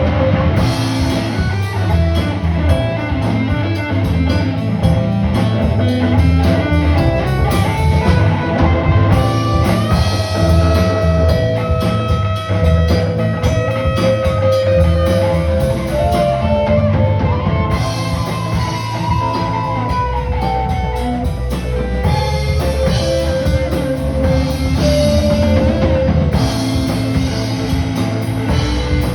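Live rock band playing: a guitar carries held notes that bend up and down over a steady drum kit.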